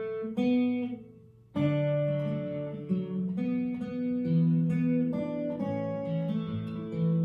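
Acoustic guitar playing the instrumental introduction of a folk song. Two short opening notes ring and fade, then steady picked and strummed chords come in about a second and a half in.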